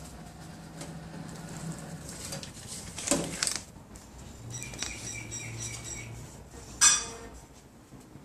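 Top-up vending machine returning money: a clatter about three seconds in, a short mechanical whir, then a sharp metallic clink near the end.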